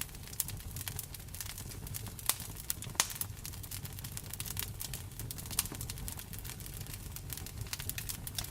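Wood fire in a fireplace crackling, with constant irregular small pops and a few louder snaps, over a low steady rumble.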